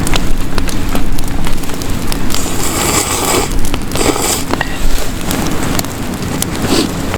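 Wood fire crackling with frequent sharp pops, and two bursts of hissing about two and four seconds in.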